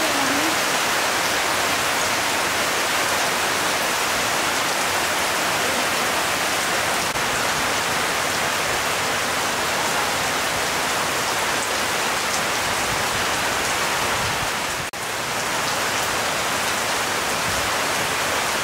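Chilli beef frying in hot oil in a pan: a steady, loud sizzle, with a brief dropout about fifteen seconds in.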